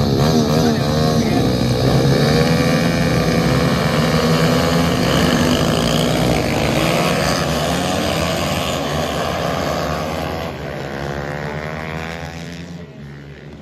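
Several small single-cylinder pit bike engines racing, revving up and down through the gears with their pitches crossing each other. The sound fades away near the end as the bikes move off.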